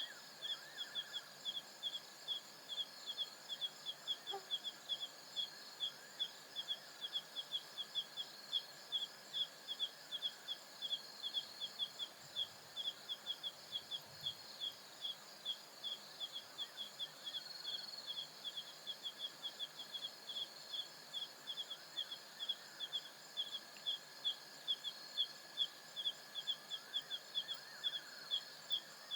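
Night insect chorus of the African savanna: one insect chirping in a steady rhythm, a few chirps a second, over the continuous high trilling of other insects.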